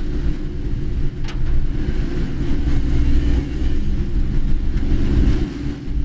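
Inside a moving car's cabin: a steady low rumble of engine and tyres on a rain-wet road, with one sharp click about a second in.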